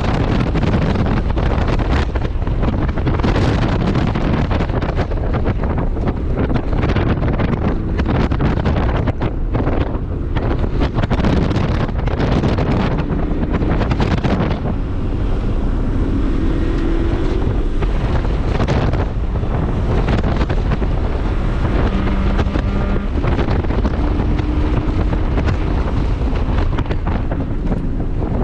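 Heavy wind buffeting on the microphone of a car at speed, over the flat-four engine of a modified 2001 Subaru Impreza 2.5RS. In the second half, short faint pitched notes come through the wind.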